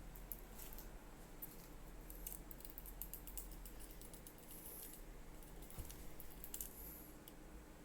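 Faint, irregular light clicks and small rattles, like something small and hard being jiggled or tapped, over a low steady hum.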